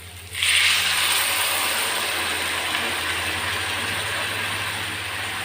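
Pork boiling water poured into a pan of frying pork: it hits the hot oil with a sudden loud sizzle about half a second in, which carries on and slowly eases.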